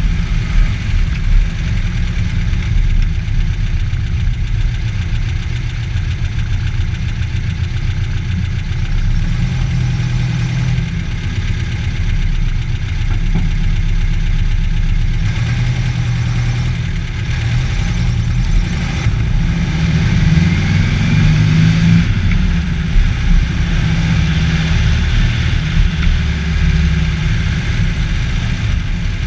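Air-cooled VW flat-four engine, a 1968cc Type 1 build, running as the Karmann Ghia is driven, with a steady low rumble that shifts in pitch as the speed changes.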